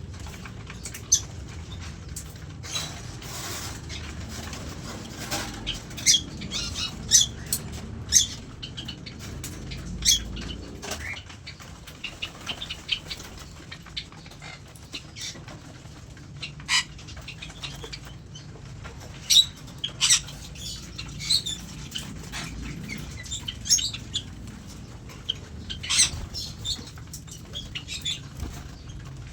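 Many aviary birds: wings flapping and rustling, with short sharp chirps scattered throughout.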